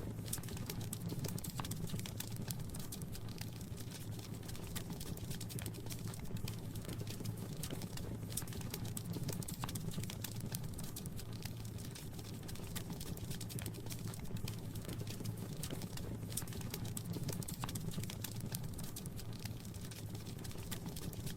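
Wood fire crackling in a fireplace: many small, quick pops and snaps over a steady low rumble.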